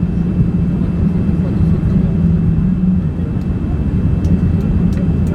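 Boeing 787 cabin noise during the approach: a loud, steady drone of engines and airflow heard from inside the cabin, with a low hum that drops away about three seconds in.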